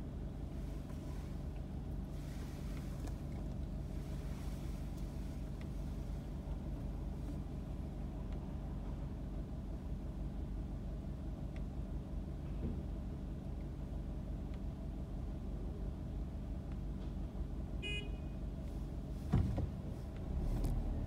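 Car engine idling, a steady low hum heard from inside the cabin. About eighteen seconds in there is a short high beep, and a second later a single thump.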